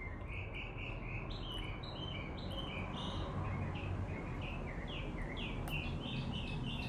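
A bird singing a long run of short chirping notes, about three a second, several of them sliding downward, over steady low outdoor background noise.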